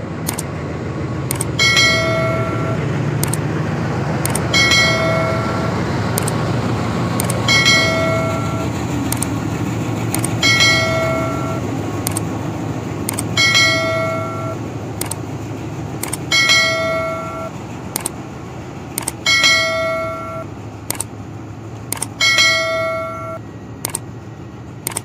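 A passenger train passing close by at speed, a low rumble that swells and then eases, under a bell-like chime struck about every three seconds with light ticks between the strikes.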